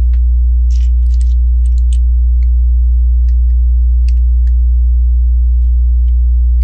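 Loud steady electrical hum throughout, like mains hum. Over it come scattered light plastic clicks and rattles of Lego bricks being handled and fitted, with a small cluster in the first two seconds.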